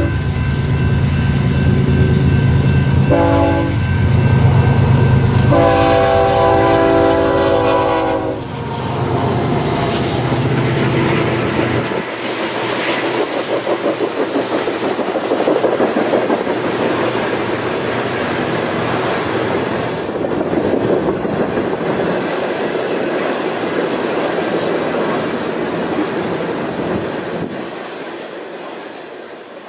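Diesel locomotive horn blowing for a grade crossing: a long blast, a short one about three seconds in, and a last long blast that ends about eight seconds in. Then loaded coal cars roll past with a steady clickety-clack of wheels over rail joints, fading near the end.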